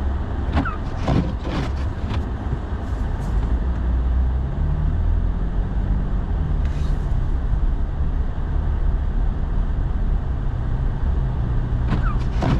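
Truck engine and road noise heard from inside the cab while driving, a steady low rumble; the engine note rises a little about five seconds in and eases again. A few brief clicks in the first two seconds.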